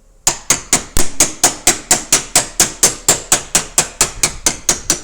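Body hammer tapping on a car's sheet-steel panel, a fast even run of about four strikes a second with a metallic ring, starting a moment in: panel-beating a dent back into shape.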